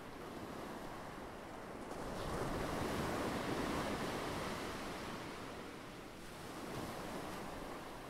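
Ocean surf: a wave breaks and washes in, swelling about two seconds in and fading away, with a smaller surge near the end.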